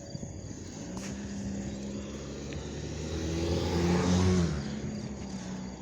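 A car driving past: its engine hum and tyre noise grow louder to a peak about four seconds in, then fade away.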